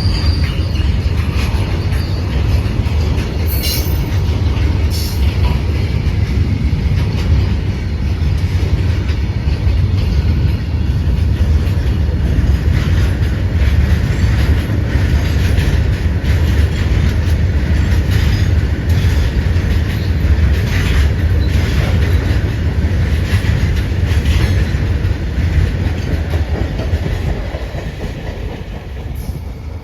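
Train running on the rails: a steady low rumble with the irregular clicks of wheels passing over rail joints, fading away over the last few seconds.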